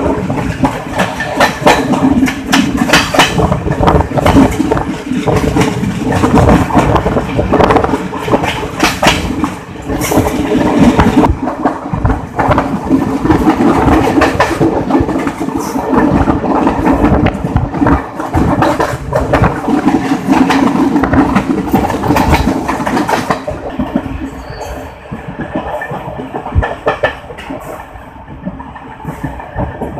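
Passenger train running at speed, wheels clattering over the rails with a steady low rumble and many sharp knocks. About three-quarters through it becomes quieter and duller.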